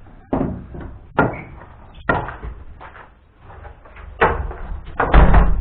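A series of irregular knocks and bumps, about five sudden sounds with a heavy low end, the loudest near the end.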